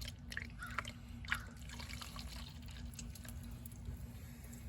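Faint scattered drips and small ticks, mostly in the first couple of seconds, over a steady low hum.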